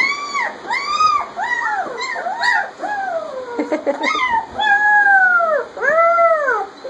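Two-week-old German Shepherd puppies whining and crying: about a dozen short, high cries in quick succession, each rising then falling in pitch, with two longer drawn-out cries in the second half.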